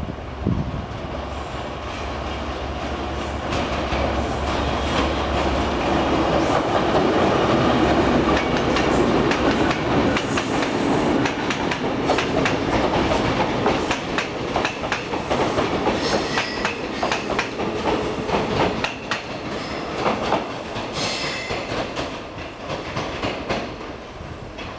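Diesel-hauled train pulling in and rolling past: a steady low locomotive engine drone at first, then a long run of wheel clicks over rail joints as the towed EMU cars go by, easing off toward the end.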